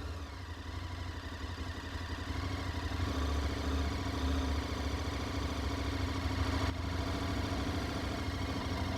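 Motorcycle engine running steadily, most likely the KTM 1290 Super Adventure's V-twin. It grows louder over the first three seconds, then holds steady.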